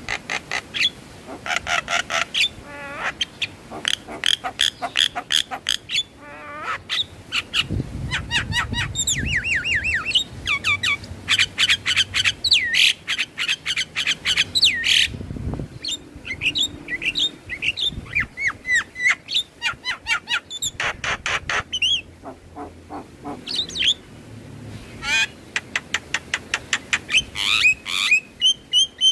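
Javan myna (jalak kebo) song: long, varied runs of rapid repeated chirps, whistled slurs and harsh rasping notes, broken by brief pauses.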